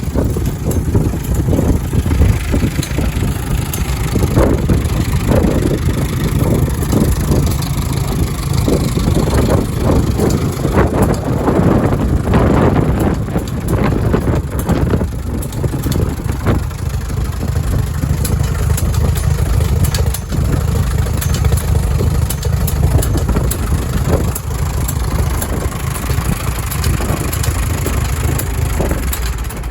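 Case DC tractor's four-cylinder engine running steadily, pulling a moldboard plow.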